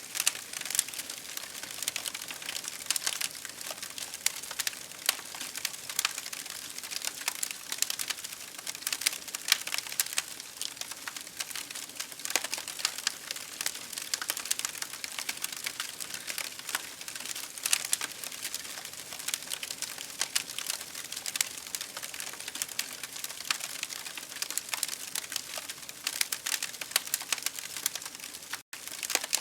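Campfire crackling: dense, irregular pops and snaps over a steady hiss, cutting out for an instant near the end.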